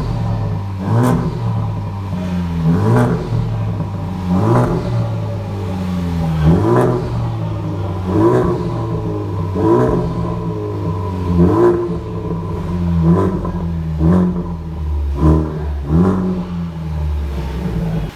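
Honda Civic Type R (FK2) 2.0-litre turbocharged four-cylinder engine blipped repeatedly through a non-resonated 3-inch turbo-back exhaust with sports cat and quad tailpipes. There are about ten quick revs, each rising and falling in pitch, roughly every second and a half, over a steady idle.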